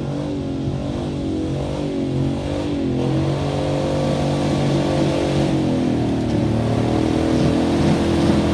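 Pickup truck's gasoline V8 engine running hard, its pitch shifting about three seconds in and growing steadily louder toward the end.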